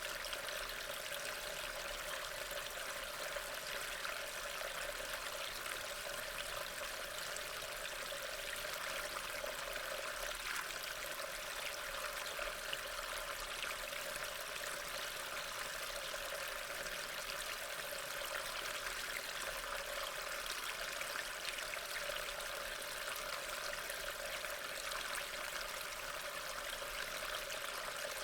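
Steady rain falling: an even, unbroken hiss of many drops with faint scattered patters.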